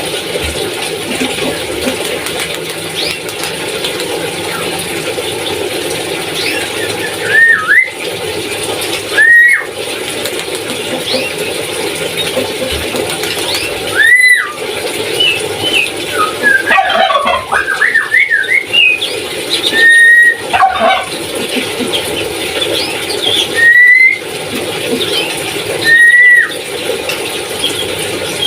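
Papuan nuri parrot calling: about half a dozen loud whistled calls, each rising and falling in pitch, with a burst of jumbled chattering in the middle, over a constant faint twittering.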